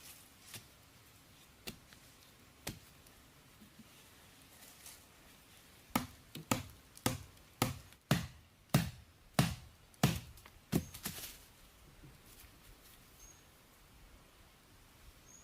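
A few faint single knocks, then a run of about nine sharp strikes, a little over one a second, each with a short ring after it.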